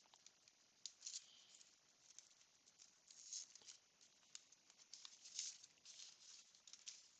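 Faint, irregular clicking and rustling of baseball cards being handled, slid and flipped one after another.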